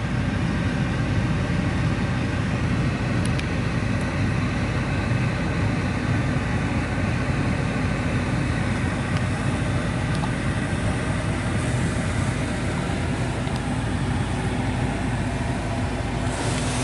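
Washworld Razor touchless car wash spraying water onto a car, heard from inside the cabin: a steady hiss of spray over the low hum of the wash's machinery. The spray grows brighter and closer near the end.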